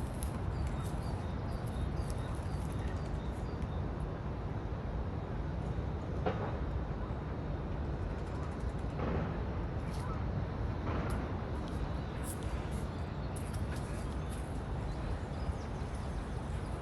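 Wind buffeting the microphone: a steady low rumble. A small bird chirps faintly and repeatedly over the first few seconds.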